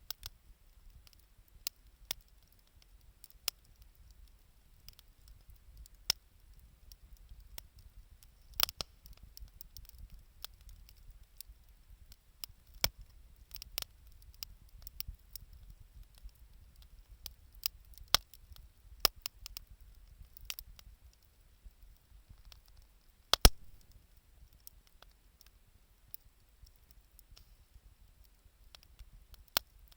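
Wood campfire crackling, with sharp, irregular pops from the burning wood and a low steady rumble beneath; the loudest pop comes about two-thirds of the way through.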